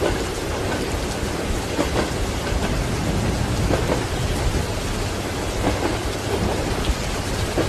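Steady rain and the low rumble of thunder, with train wheels clacking over rail joints about every two seconds.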